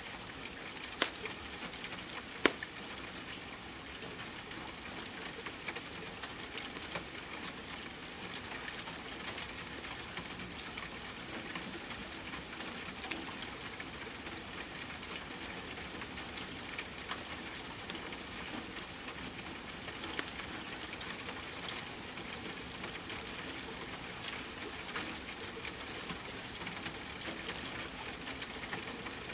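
Steady rain hissing, mixed with a wood fire crackling, with scattered sharp pops; the two loudest come about one and two and a half seconds in.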